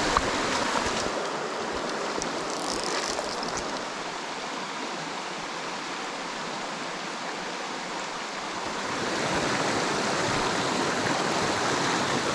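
Mountain stream water rushing steadily over rocks, growing louder about three quarters of the way through.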